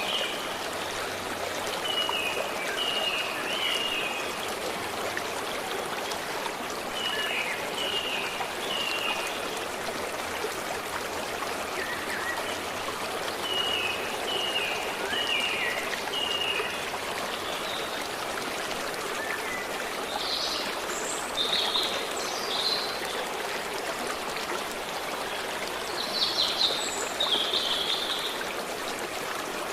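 A stream running and trickling steadily, with birds calling over it: short runs of three or four quick falling notes repeated every few seconds, then louder, higher calls about twenty seconds in and again near the end.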